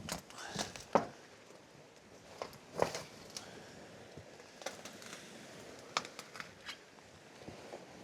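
Scattered sharp knocks, scrapes and crinkles a second or two apart, the loudest about a second in and near three seconds in: work at the roof edge, handling loose sheet-metal flashing and tree debris.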